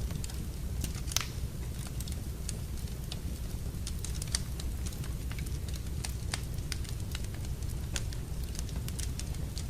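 Wood fire crackling in a fireplace: irregular sharp snaps and pops, a few a second, over a steady low rumble, with one louder pop about a second in.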